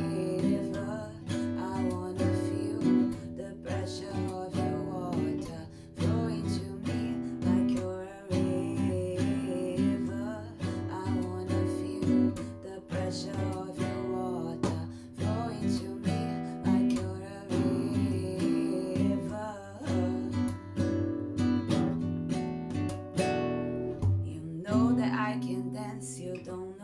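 Acoustic guitar strummed and picked in a steady rhythm, accompanying a song.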